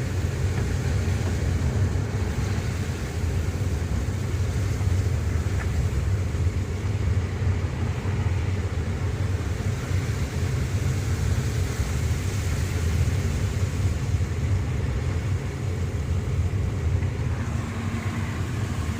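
Car driving: a steady low rumble of engine and road noise that holds even throughout.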